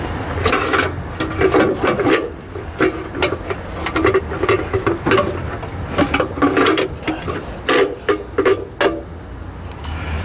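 Monte Carlo's engine being cranked by the starter, turning over in uneven bursts with knocks about twice a second without catching; the owner suspects the fuel pump is not delivering fuel.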